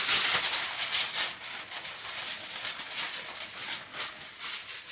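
Aluminium foil being crinkled and rustled in quick crackles, loudest in the first second or so.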